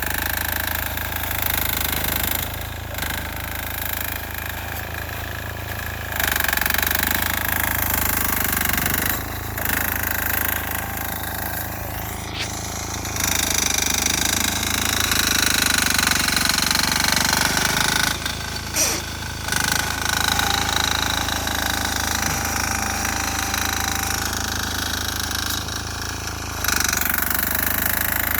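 Small air-cooled single-cylinder 6 hp diesel engine on a Sears Suburban garden tractor, running hard under load while clearing heavy snow, with a rapid knocking beat. Its loudness rises and falls several times as the load changes.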